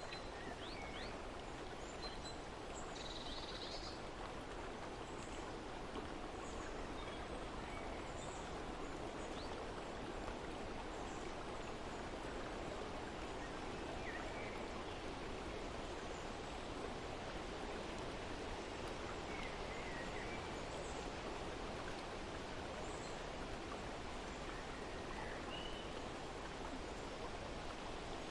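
Steady rush of flowing water, with short bird chirps scattered through it.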